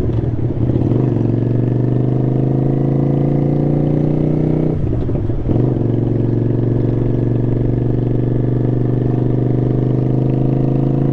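Motorcycle engine pulling steadily under way, its pitch slowly climbing. There is a gear change at the start and another about five seconds in, each a short break after which the engine picks up at a lower pitch and climbs again.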